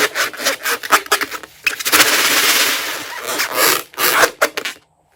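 Crunchy slime being squished and worked by hand: dense crackling and crunching with rapid small clicks, which stops suddenly near the end.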